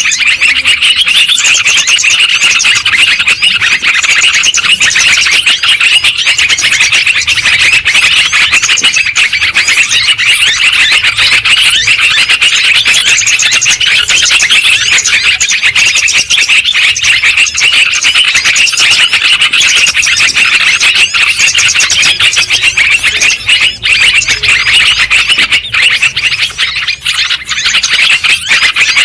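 Yellow-vented bulbuls (terucukan) calling noisily, many chirps overlapping in a loud, unbroken chorus.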